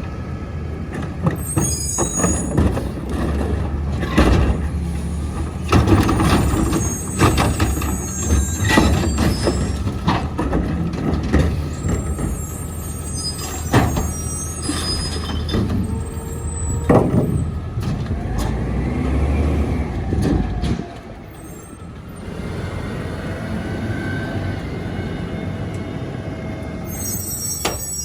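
Mack MRU garbage truck with a McNeilus rear-load body at work: its engine runs under load amid repeated metallic clanks and bangs and high squeals, with air-brake hissing. About 21 s in the engine sound drops off sharply and a quieter steady hum remains.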